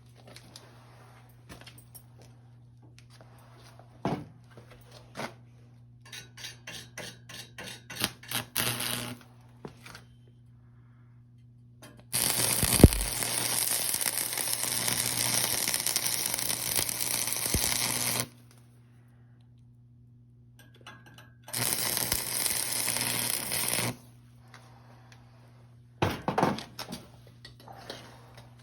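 Workshop work with a noisy tool: a run of quick clicks and knocks, then a steady rushing noise that starts and stops abruptly twice, for about six seconds and then about two seconds, over a low steady hum.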